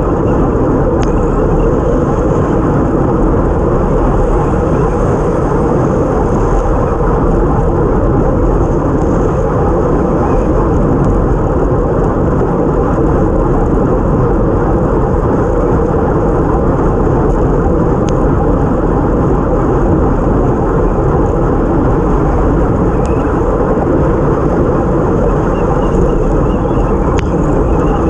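Steady rush of wind buffeting a bike-mounted action camera at time-trial speed, mixed with tyre and road noise on a wet road, with a few faint clicks.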